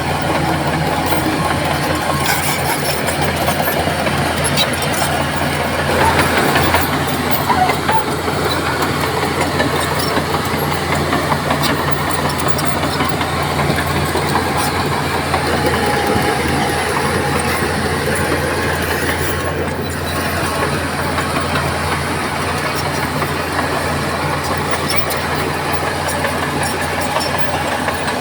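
Crawler bulldozer's diesel engine running steadily with a low drone, with rattling and clanking from its steel tracks, a little louder for a couple of seconds about six seconds in.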